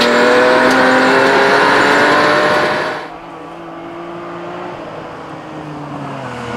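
BMW E46 3 Series rally car engine running at fairly steady revs on a gravel stage, heard loud from inside the cabin. About three seconds in, the sound cuts suddenly to the car heard from the roadside as it approaches: quieter, with the engine note climbing near the end.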